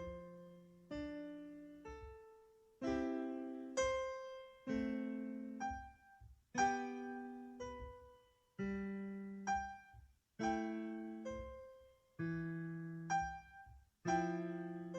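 Background music: slow, gentle piano or electric piano notes and chords, each struck and left to fade before the next, about one a second.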